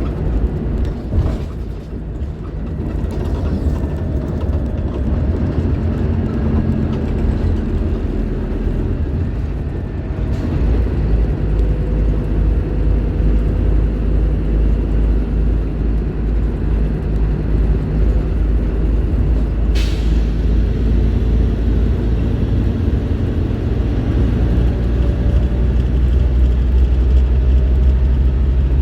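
Scania K310IB bus's five-cylinder diesel engine running while the bus drives, a heavy low drone that gets louder about ten seconds in and again near the end as it pulls harder. A single brief sharp hiss cuts in about twenty seconds in.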